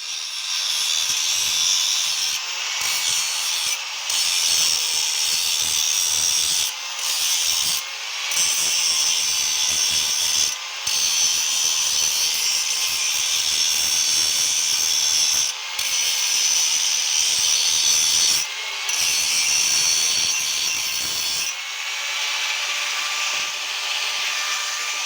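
Power tool working on the metal of a motorcycle exhaust pipe, running steadily under load. It briefly eases off several times, about every two to four seconds.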